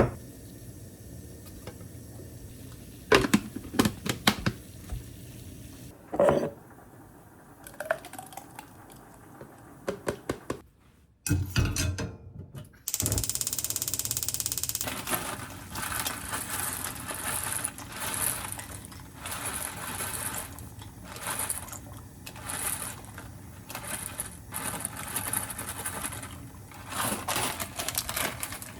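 Kitchen food-preparation sounds: a series of sharp clicks and knocks of utensils and dishes, then, about halfway through, a steady hiss sets in with repeated scraping and clatter over it.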